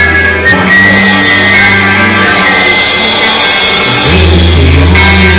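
Rock band playing an instrumental passage: electric guitar lines over bass and drums, with the low bass notes dropping out for a few seconds in the middle.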